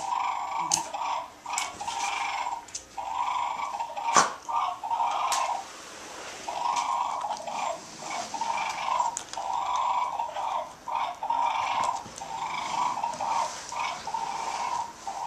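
A dog growling and grunting in repeated short bouts while worrying a toy, with occasional sharp knocks, the loudest about four seconds in.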